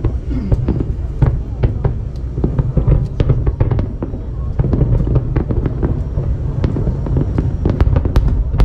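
Aerial fireworks display: a steady run of sharp pops and crackles over a continuous low rumble of bursting shells.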